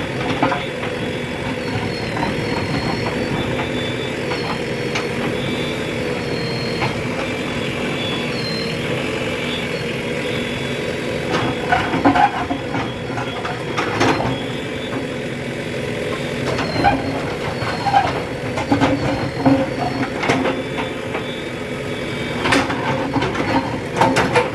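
JCB construction machine's diesel engine running steadily, with scattered clanks and knocks from about halfway on, most of them near the end.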